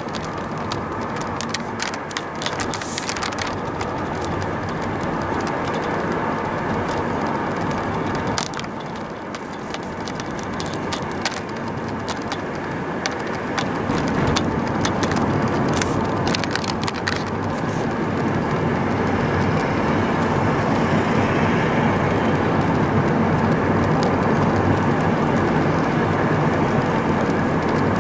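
Heavy diesel haulage trucks in an oversize convoy approaching, with engine drone and tyre noise growing louder over the second half. Scattered sharp clicks in the first half.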